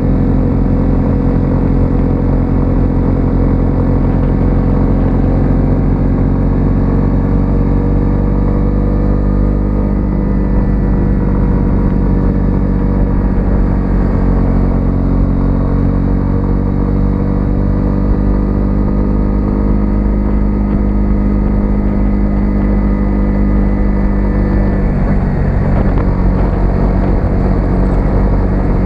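A 125cc single-cylinder four-stroke motorcycle engine running at a steady cruise with only gentle changes in pitch. Near the end the engine note drops as it slows. Low rushing noise lies under it throughout.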